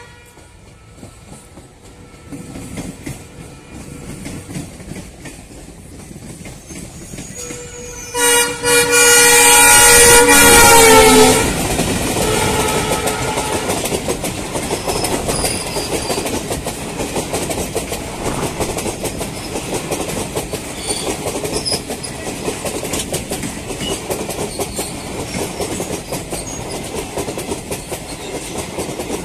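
An Indian Railways express train approaching and passing through a station at speed. The locomotive sounds a loud horn for about four seconds, dropping in pitch as it goes by, then the coaches rattle past with a steady clickety-clack of wheels over rail joints.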